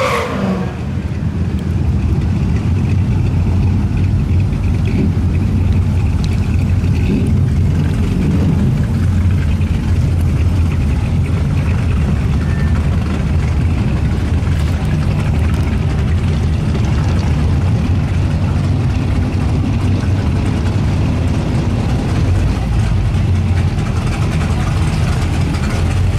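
A car engine running at a steady, even low rumble, with no revving.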